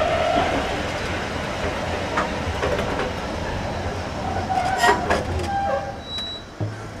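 Passenger carriages of a steam-hauled train rolling slowly along a platform: wheels running on the rails with brief squeals, the noise dying away near the end as the train slows.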